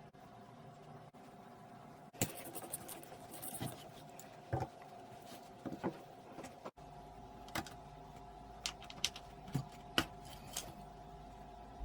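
Scattered light clicks and taps of small hard parts being handled, over a faint steady hum.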